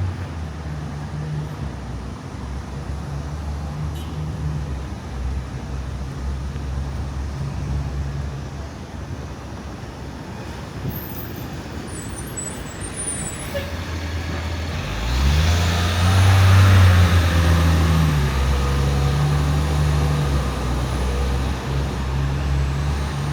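Road vehicles running nearby with a steady low engine hum; a louder vehicle passes or pulls away about fifteen seconds in.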